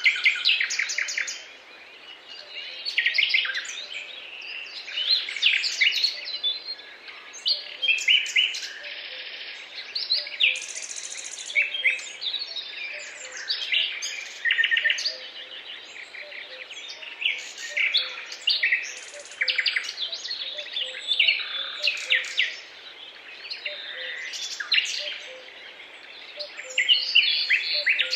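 Several songbirds singing at once, a dense mix of overlapping chirps and trills, over a faint steady hiss.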